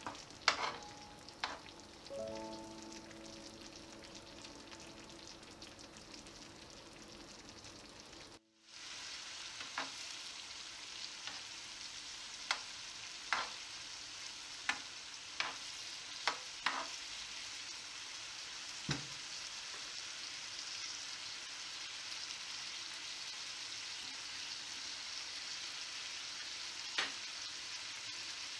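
Carrots and daikon sizzling in butter in a pan, with now and then a sharp tap of a utensil against the pan. The sizzle breaks off briefly about eight seconds in and comes back louder.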